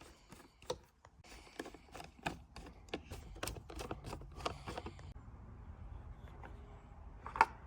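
Light, irregular clicks and taps of small hard parts being handled, thick in the first five seconds and then sparser, with one louder click near the end.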